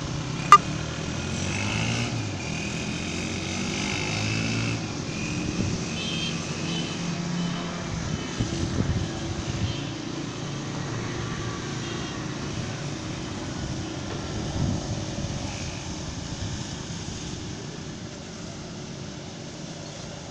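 Small drone's motors and propellers running steadily, with a shifting hum and whine, easing slightly toward the end. A sharp click about half a second in.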